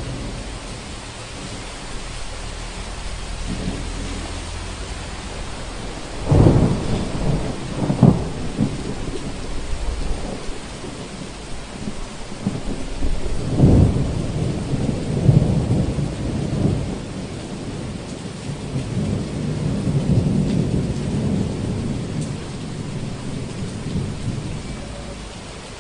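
Thunderstorm: steady rain with thunder. Sharp claps come about six, eight and fourteen seconds in, followed by long rolling rumbles that swell and fade.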